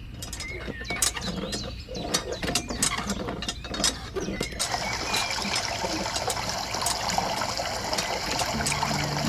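Miniature hand pump being worked: a run of quick clicks and rattles from its small mechanism, then from about halfway a steady rush of water flowing out.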